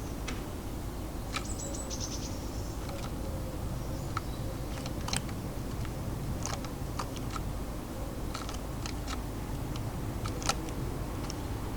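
Irregular sharp clicks and taps of birds pecking and handling seed at a garden feeder, with a brief burst of high, thin bird notes about a second and a half in. Under it all runs a steady low background rumble.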